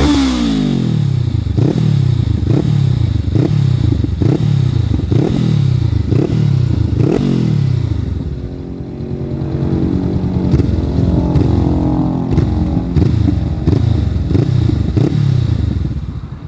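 Honda CBR500R's parallel-twin engine through a modified stock exhaust cut open into a slash pipe, revved in quick throttle blips about two a second, then dropping back before being held at a steady raised rev with small rises near the end.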